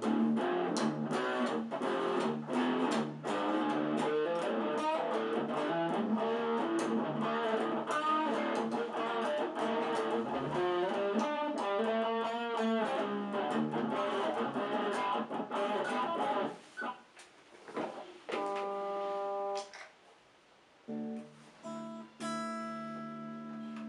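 Cort X-series electric guitar being played: a fast, busy run of picked notes for about sixteen seconds, then two chords left to ring out, with short gaps between them.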